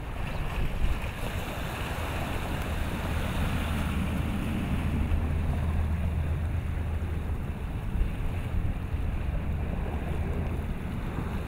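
Wind buffeting the microphone over open water, with a low steady rumble that swells in the middle.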